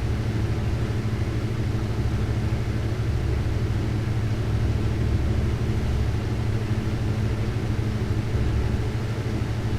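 Steady low rumble of a glassworking torch flame burning, with a faint steady hum beneath it.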